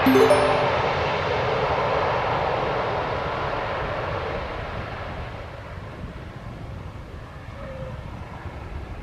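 Airplane engine noise fading steadily as the aircraft moves away. A brief cluster of short tones sounds right at the start.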